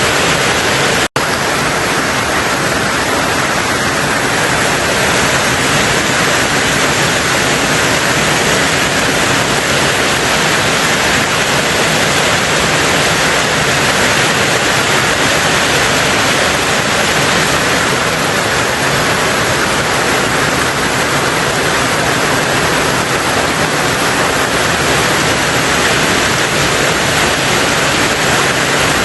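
Steady heavy rain drumming on a tin roof, a dense even hiss with no single drops standing out. There is a split-second gap about a second in.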